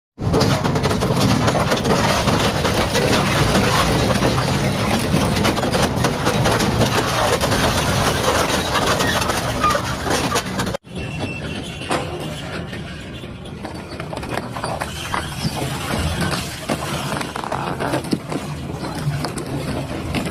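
Double-shaft industrial shredder running and crushing material, a loud dense grinding noise. About halfway through it cuts abruptly to a quieter shot of the shredder running with a low rumble and intermittent cracks.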